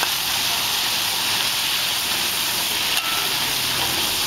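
Food frying in hot oil, a steady sizzling hiss.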